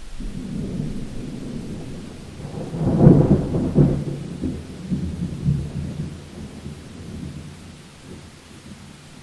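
A thunderstorm: a low roll of thunder swells to its loudest about three seconds in and rumbles away over the next few seconds, over steady rain.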